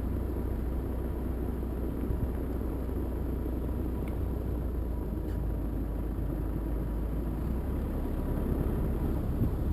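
Steady low rumble of wind buffeting the microphone in a blizzard.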